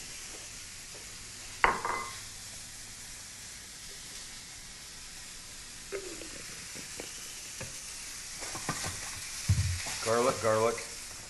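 Chicken and chunks of bread frying in butter in pans on a gas range, a steady sizzle, with a few light knocks and clicks of handling.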